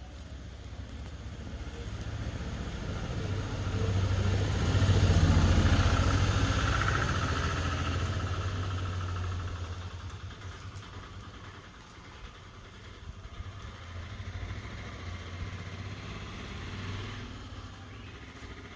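A motor vehicle engine running, growing louder to a peak about five to six seconds in and then fading as it passes by, with a weaker swell later on.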